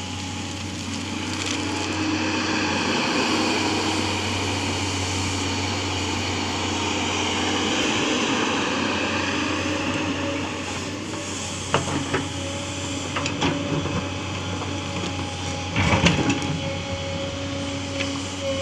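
Tata Hitachi excavator's diesel engine running steadily under work. A few sharp knocks and clanks come through it from about twelve seconds in, the loudest about sixteen seconds in.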